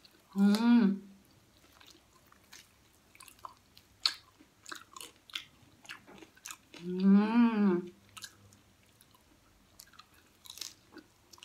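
Close-up chewing of crispy deep-fried pig head: scattered sharp crunches and mouth clicks from the fried skin and meat. Twice, about half a second in and again about seven seconds in, there is a short hummed "mm" of enjoyment.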